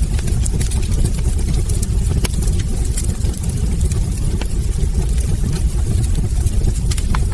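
Wood fire burning in a fireplace: a steady low rumble of the flames, with scattered sharp crackles and pops from the burning logs.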